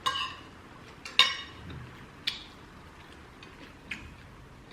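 Cutlery clinking against ceramic plates while eating: about four sharp clinks, the two loudest at the start and about a second in, ringing briefly, then two fainter taps.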